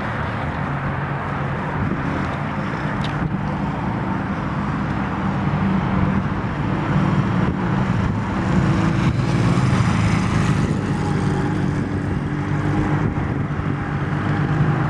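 2008 Honda CMX250C Rebel's 234 cc air-cooled parallel-twin engine running steadily at idle.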